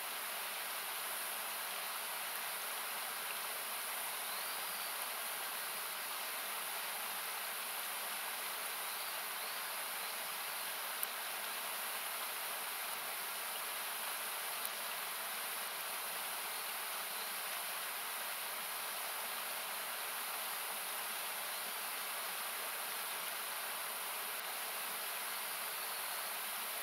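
Steady rushing of a nearby river or waterfall, equalised so that it comes through as an even hiss, with a few sharp crackles from the wood campfire, the clearest about eleven and fifteen seconds in.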